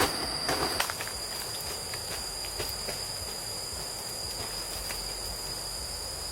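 A steady, high-pitched insect drone over an even hiss of running stream water, with a few sharp knocks in the first second.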